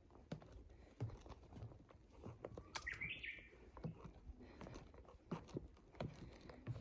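Footsteps on a trail, one step roughly every half second to second, with small scuffs and knocks between them. A bird chirps once about three seconds in.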